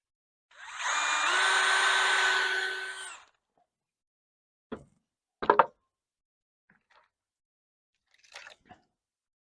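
A power drill runs for about two and a half seconds, its motor pitch stepping up shortly after it starts, while driving a screw. A couple of short knocks follow a few seconds later.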